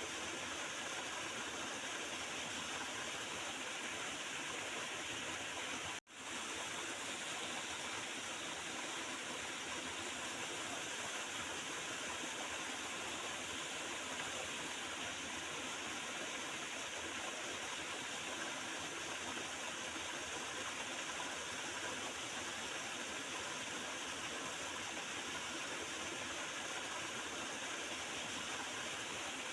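Small river gurgling and rushing steadily over its bed. The sound drops out for an instant about six seconds in.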